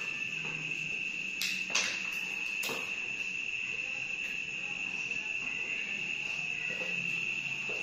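A steady high-pitched insect trill, like a cricket, running without a break. A few sharp clicks or knocks come between one and a half and three seconds in.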